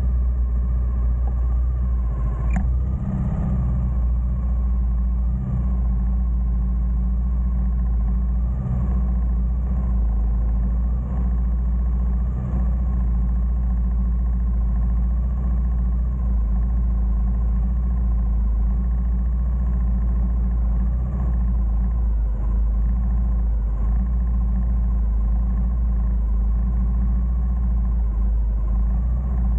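Honda GB250 Clubman's single-cylinder four-stroke engine running steadily as the motorcycle rides, heard from on board.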